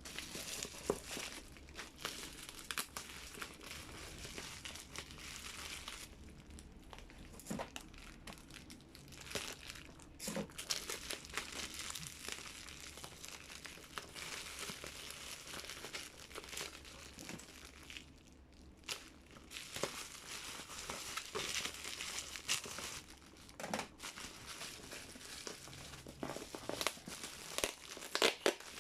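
Packaging crinkling and rustling as it is unwrapped and handled by hand, in irregular bursts with a few short pauses.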